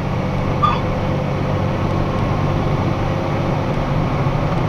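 Box truck's engine and road noise heard inside the cab while driving, a steady low hum under an even rush.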